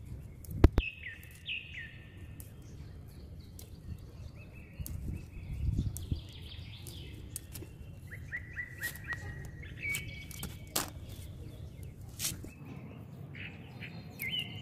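Small birds chirping and twittering in quick repeated phrases, with a few sharp clicks from handling, the loudest about a second in.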